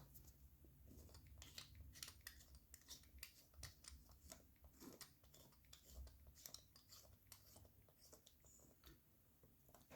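Faint, irregular clicks and scrapes of small metal parts being handled: a replica Rolex's case back being worked onto the case over its new gasket by hand.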